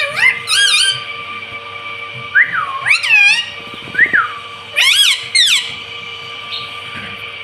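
Ringneck parrot making short whistled calls with arching, up-and-down pitch, in about four bursts, over a steady faint background tone.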